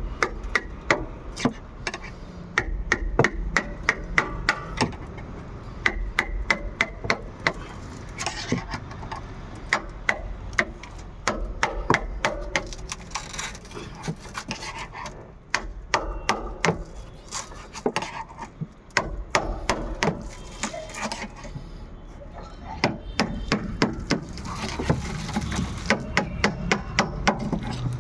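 Irregular sharp knocks and taps, like light hammering, several a second, over a low steady rumble.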